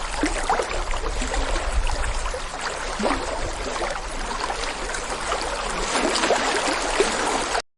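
Running water of a stream, an even rush full of small gurgles and bubbling blips over a low rumble, which cuts off abruptly near the end.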